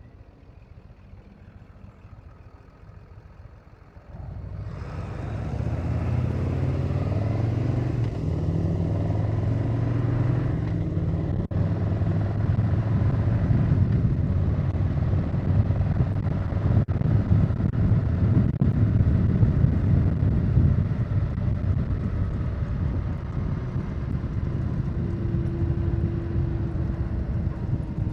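Harley-Davidson Low Rider S V-twin motorcycle engine, quiet at first, then the throttle opens suddenly about four seconds in and the bike pulls away. The engine note steps as it shifts up, then settles into steady cruising with wind and road noise.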